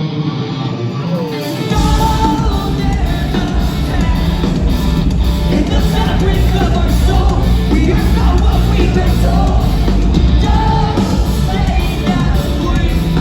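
Live rock band playing loud: electric guitar and a singer, with drums and bass coming in together under two seconds in.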